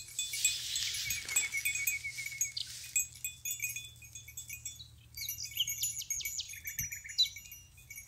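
Small metal bells worn by grazing goats clinking irregularly as the animals move. Songbirds chirp and trill about five to seven seconds in.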